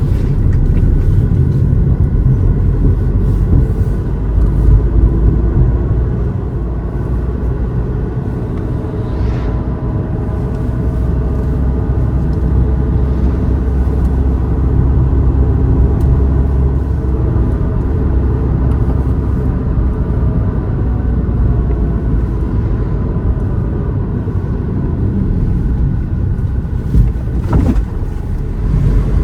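Car driving, with a steady rumble of engine and road noise and two brief sharper sounds, one about nine seconds in and one near the end.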